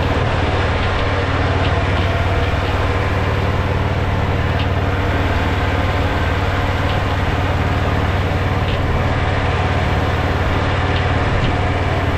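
Mini tractor engine running steadily at an even speed, a continuous low drone.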